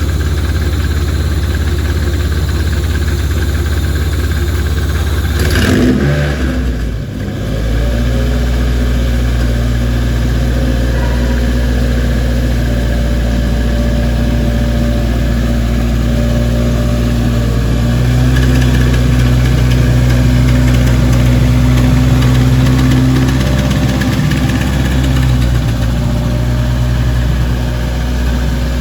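Toyota 2AZ 2.4-litre inline-four on an engine test stand, first start: cranked steadily for about five seconds until it catches, then running steadily, with the revs rising for several seconds about two-thirds of the way through before settling back.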